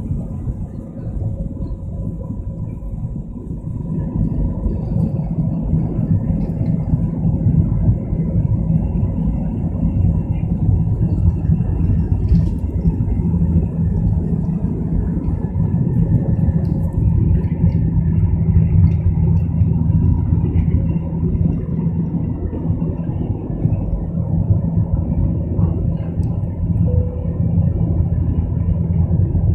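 Boeing 737's jet engines at takeoff thrust during the takeoff roll: a loud, steady low rumble with a steady hum, growing louder about four seconds in and then holding.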